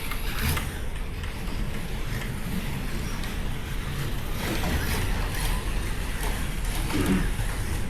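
Slot cars running practice laps on the track: a steady whir of small electric motors and tyres on the track surface.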